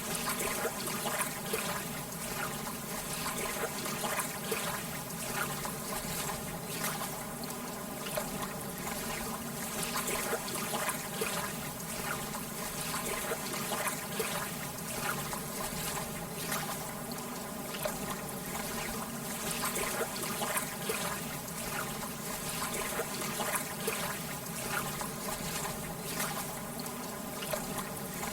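Lake water lapping gently: a steady wash of small ripples with many little splashes and trickles.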